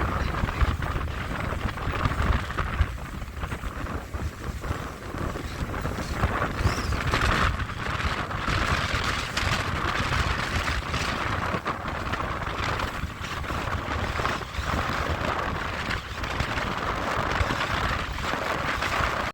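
Aluminium-hulled Quintrex 620 Ocean Sport boat under way: wind buffeting the microphone in an uneven low rumble over the steady hiss of water rushing past the hull, with now and then a brief thud.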